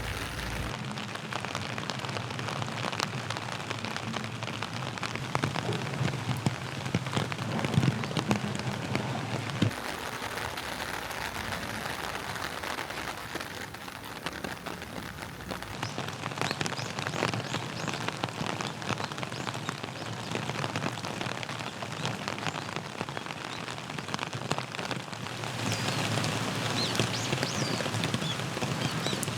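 Steady rain falling, with many individual drops spattering close by. The low rumble under the rain shifts abruptly a few times.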